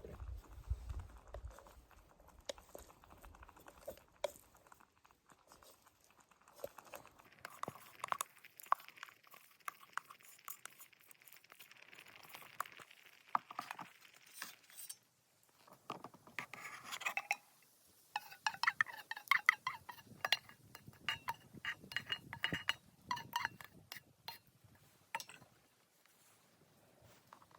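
Small camp gear being handled: a long run of light metallic clinks and clicks, with a stretch of soft hiss or rustle in the middle.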